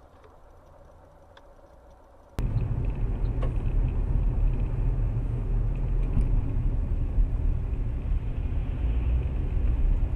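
Car driving, its engine and road noise a steady low rumble as picked up by a dash cam microphone, cutting in abruptly about two seconds in after a faint hum.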